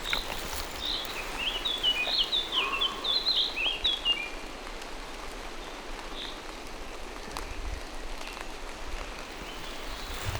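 Steady rain falling through forest trees, with scattered drips. From about the first second to about four seconds in, a songbird sings a quick run of high, chirping notes.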